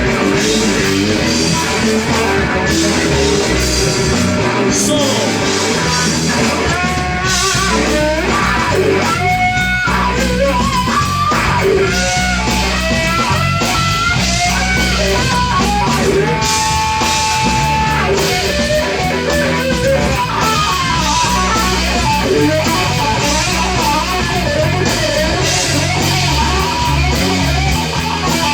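Rock band playing an instrumental stretch: electric guitar lead with bending notes over bass and drums, loud and steady.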